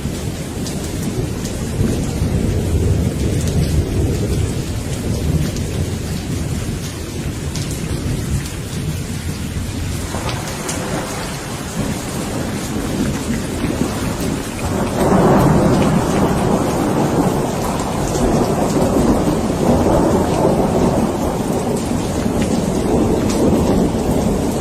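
Steady rain falling, with rolling thunder: a low rumble through the first half, then a louder thunder roll starting about halfway through that rumbles on to the end.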